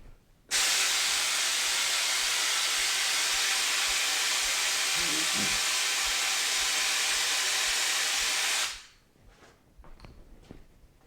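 A pressurised jet hissing steadily for about eight seconds, starting abruptly about half a second in and tailing off near the end.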